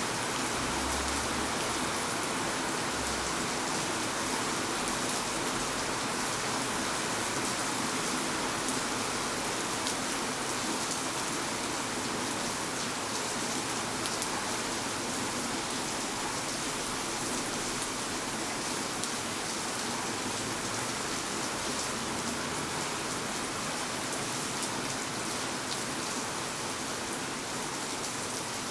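Steady rain falling, a continuous even hiss with the fine patter of drops.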